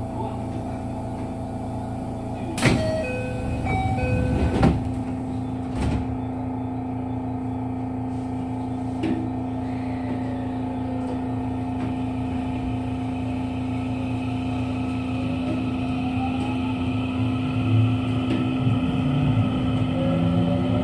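JR West 207 series electric commuter train, heard from inside the car: two loud door knocks a few seconds in with short chime-like tones, then steady car hum as it sets off. Near the end the traction motors' whine rises in pitch as the train accelerates; the motors still have their original, unchanged pitch.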